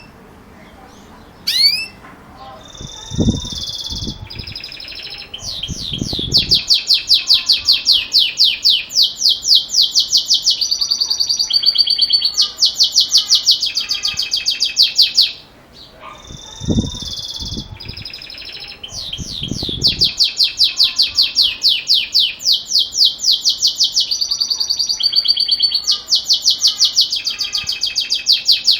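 Belgian canary singing the metallic, bell-like 'campainha' song: long phrases of fast repeated notes and rolling trills, with a short break about halfway through. A few low thuds come near the start of each phrase.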